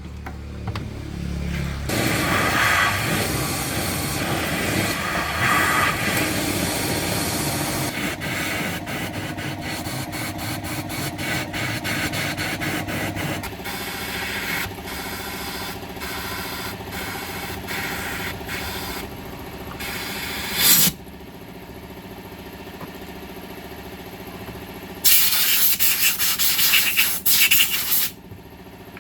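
A car engine running, settling into a steady idle with a rapid ticking over it from about halfway through. Loud bursts of hissing break in briefly around two-thirds of the way in and for a few seconds near the end.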